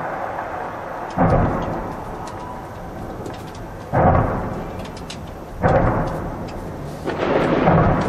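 Fireworks display: a continuous crackling hiss with scattered sharp pops, broken by four loud booms, about a second in, at four seconds, at five and a half and at seven, each fading over about a second.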